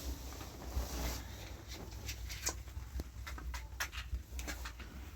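A series of light, irregular clicks and knocks over a steady low rumble.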